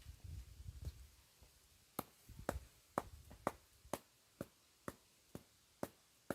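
A series of short, sharp taps or knocks, about two a second, starting about two seconds in after a low rumble.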